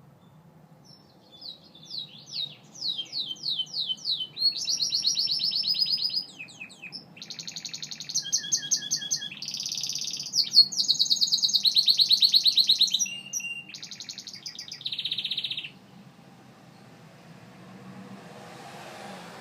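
Gloster canary singing: a long song of fast trills and rapidly repeated notes in changing phrases, starting about a second in and stopping about three seconds before the end.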